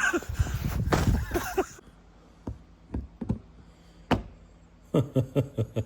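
A noisy, scraping stretch with voices that cuts off after about a second and a half, then a few scattered single knocks and a quick run of about five knocks near the end.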